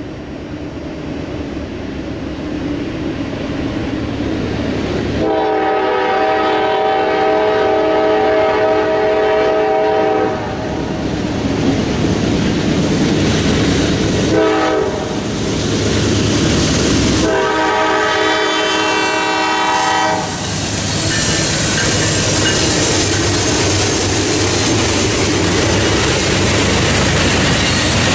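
Diesel locomotive approaching and sounding its air horn: a long blast, a short toot, then another long blast. After the horn, the train runs past with steady wheel and rail noise and a clickety-clack.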